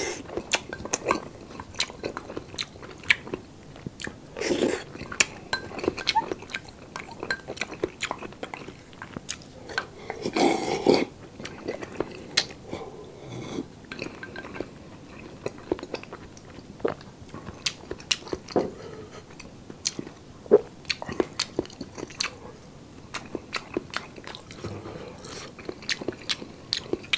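Close-miked chewing and wet mouth clicks of someone eating sautéed chayote with ground beef and its broth, with two longer slurps, the louder one about ten seconds in.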